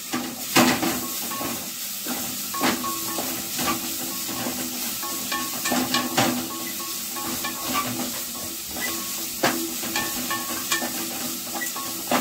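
Boiled amaranth leaves frying in a little oil with a garlic and mustard-seed tempering, sizzling steadily while a spatula stirs them through the pan, scraping and knocking against it about once a second at irregular intervals.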